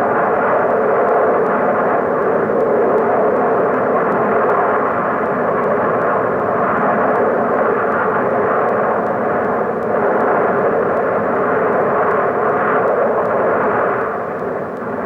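Hot volcanic gas jetting from a degassing vent on Kilauea, a steady rushing noise that eases slightly near the end.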